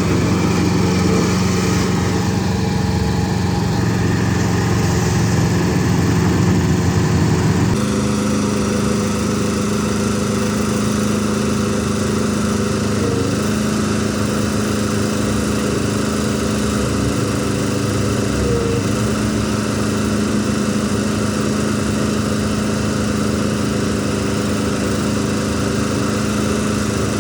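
Small Komatsu SK04 skid-steer loader's diesel engine running steadily. About eight seconds in, the engine note shifts abruptly to a slightly higher pitch and keeps running evenly.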